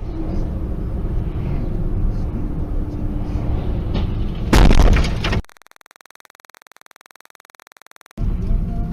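Car road and engine noise rumbling steadily, then a loud crash impact about four and a half seconds in that lasts under a second. A faint steady electronic buzz follows for about three seconds before the road rumble comes back.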